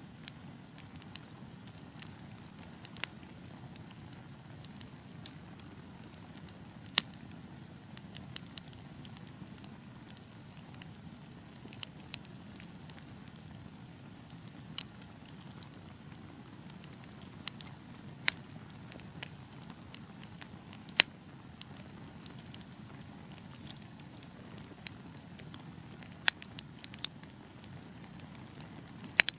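Wood fire burning in a fireplace: a steady low hiss and rush of the flames with irregular sharp crackles and pops, a few of them much louder than the rest.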